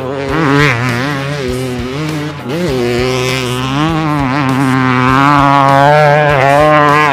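Dirt bike engine sound revving, its pitch swooping up and down, then holding a steadier, louder drone through the second half.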